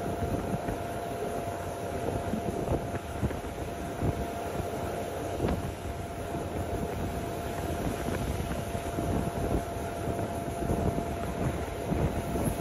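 Passenger train running along the track, heard from on board: a steady rumble with scattered irregular knocks and a steady high hum.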